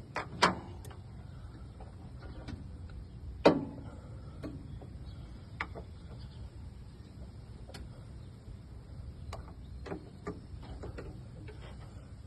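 Sparse, irregular clicks and knocks, the loudest about three and a half seconds in, over a low steady hum.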